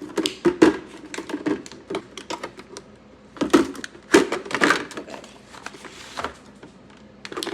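Eggs being set one after another into an egg holder: a run of quick clicks and taps, thickest about halfway through.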